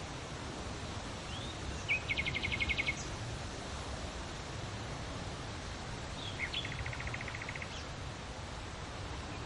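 Steady wind noise with a low rumble. A small bird sings twice over it, each time a short note then a fast trill of rapid repeated notes: about two seconds in and again about six and a half seconds in.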